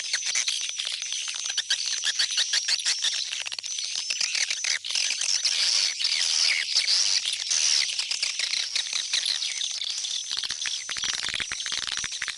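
Swiftlets twittering in a dense, continuous chorus of rapid high chirps and clicks. It is the swiftlet call used to lure the birds back into a swiftlet house.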